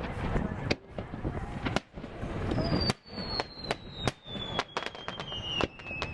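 Fireworks display: irregular sharp bangs and crackles from bursting shells, with a high whistle slowly falling in pitch through the second half.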